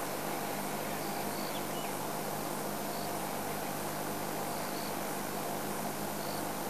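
Insects chirping in the bush: faint short high chirps repeating about once a second over a steady hiss, with a low steady hum underneath.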